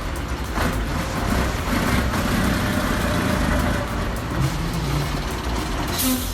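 Tatra 138 S3 truck's diesel engine running under load while pulling at a stubborn tree stump, a steady low rumble with noise.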